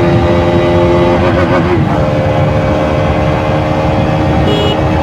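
KTM RC 200's single-cylinder engine running through its stock exhaust while riding, a steady even note. About a second and a half in the pitch wavers, then settles slightly lower.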